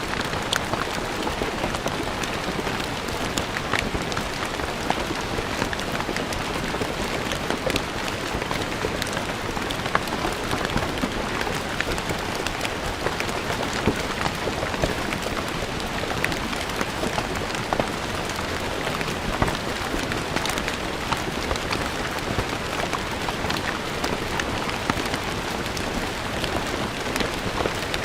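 Steady rain falling on stone paving, a constant hiss with many distinct drop splashes and ticks scattered through it.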